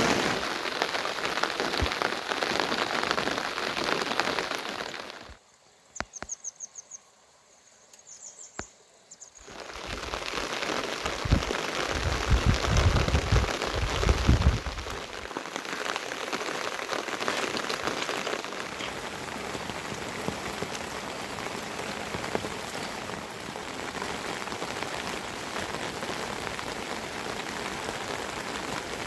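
Steady rain falling, an even hiss. It drops out for about four seconds in the first third, when only a few clicks and two short high chirping trills are heard. A low rumble then runs for several seconds before the rain hiss settles back to a steady level.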